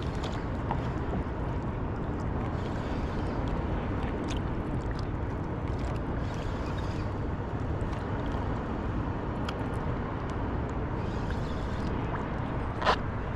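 Steady low rumble of open water around a surfboard, with brief splashy hiss and small scattered ticks, and one sharp click near the end.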